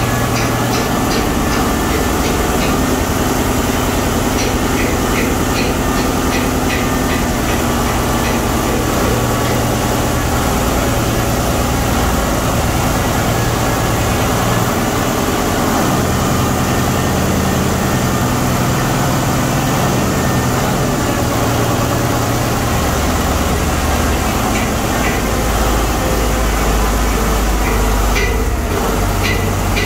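Ship's main diesel engine running in the engine room: a steady, loud drone with a rapid ticking on top.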